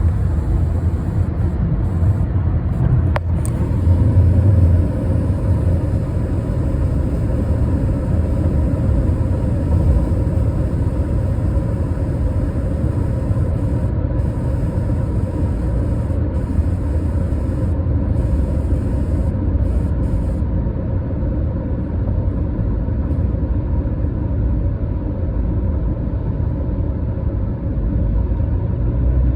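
Steady road and engine rumble inside a 2015 Honda Accord's cabin at highway speed, with a faint steady buzz from the dashboard that comes on above 65 mph once the car is warmed up. A single sharp click about three seconds in.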